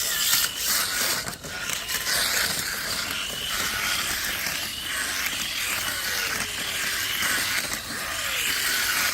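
Tamiya Mini 4WD toy car running along a plastic track: a steady, fast whir and rattle from its small electric motor and plastic chassis.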